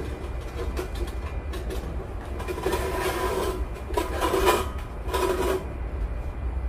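Steel heat-diffuser plate scraping and clattering against bricks as it is set into its slot, in three rough bursts a little under a second apart, over a steady low rumble.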